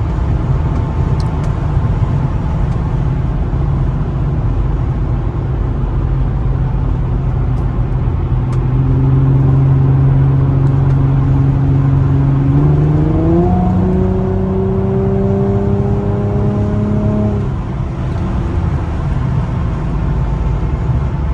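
2007 Infiniti G35 Coupe's V6 with a Motordyne exhaust running under steady road noise while driving. Past the middle the engine note grows louder, jumps up in pitch and climbs as the car accelerates, then drops away a few seconds later as the throttle eases.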